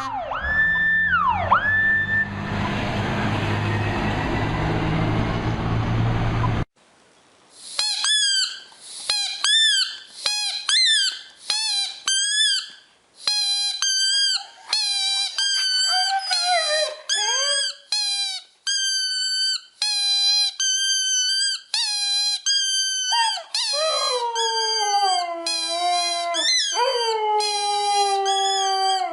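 A rapid series of short, high-pitched squeaks, several a second, after about six seconds of hissing noise that cuts off abruptly. Near the end the squeaks give way to longer, falling dog whines and howls.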